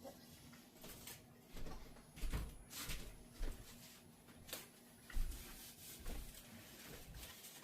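A person chewing a bite of food dipped in au jus, with faint clicks and a few soft low thumps.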